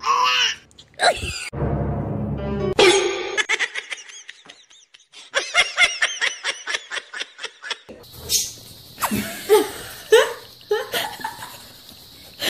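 Laughter in quick repeated bursts, about four a second, in short clips that cut suddenly from one to the next.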